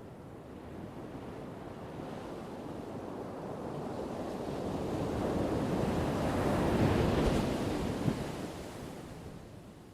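An ocean wave breaking and washing up the shore: a rushing surge that builds, is loudest about seven seconds in, then draws back and fades.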